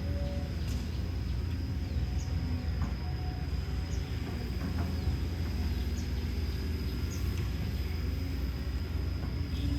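Hino J05E-TG four-cylinder turbo diesel engine of a Kobelco SK210LC excavator running at a steady speed: a constant low drone with a thin, steady high whine above it.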